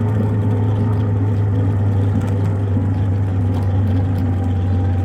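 An engine running steadily at constant speed, a loud low hum that neither rises nor falls.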